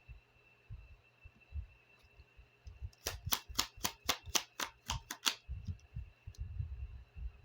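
Oracle cards being handled during a draw: a run of about ten crisp clicks, roughly four a second, starting about three seconds in, followed by soft low knocks as the cards are handled.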